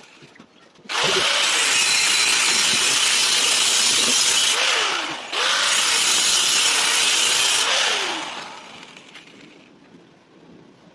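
A power tool running in two bursts, the first about three and a half seconds and the second about two and a half, with a short break between them; its pitch glides as it spins up and down at each start and stop.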